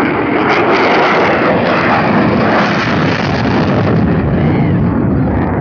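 Loud, steady rushing noise of a military jet's engine at an air show, with no break through the whole stretch.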